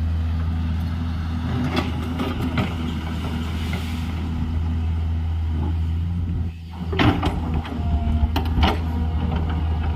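Excavator's diesel engine running steadily under load. A brief drop in the engine note just past halfway, then a string of sharp metallic clanks and knocks from the machine working.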